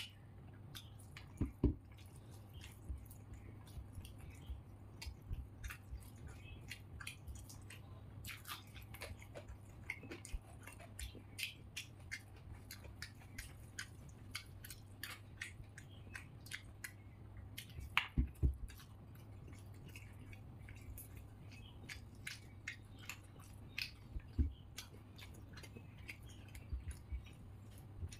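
A person chewing pulao with wet, smacking mouth sounds: many small irregular clicks while fingers gather rice on a plate. There are a few louder knocks, about a second and a half in, near 18 seconds and near 24 seconds, over a steady low hum.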